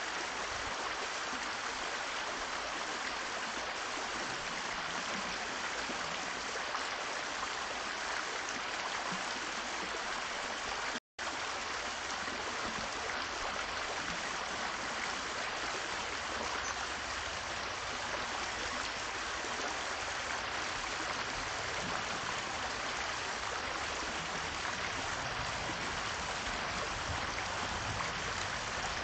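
Steady rushing noise, like running water, with no clear bird calls; the sound cuts out completely for a split second about eleven seconds in.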